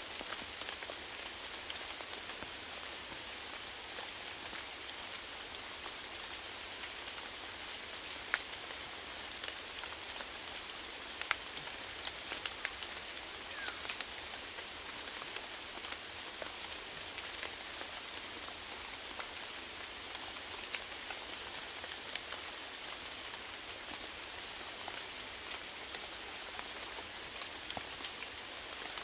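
Steady rainfall: an even hiss of rain on a surface with scattered individual drop taps, a few louder ones standing out.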